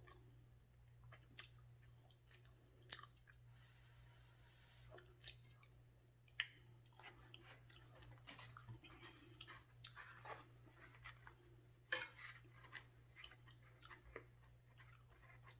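Faint chewing of chicken pot pie with gravy, close to the microphone, broken by scattered short, sharp mouth clicks and smacks.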